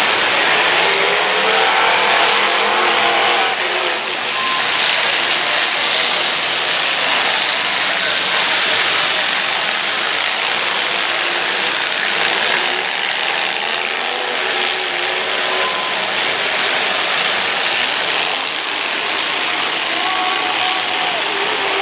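Several demolition derby cars' engines running and revving hard at once, a dense steady din with engine pitches rising and falling.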